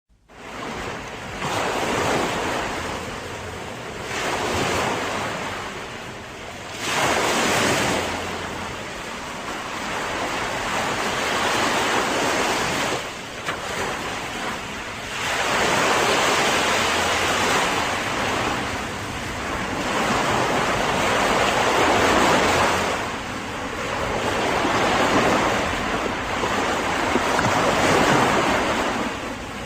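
Ocean waves breaking and washing in, the surf swelling and ebbing every few seconds, with wind on the microphone.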